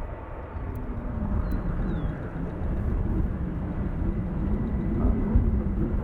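Jet aircraft engines rumbling, with a wavering hum that comes in about a second in and holds.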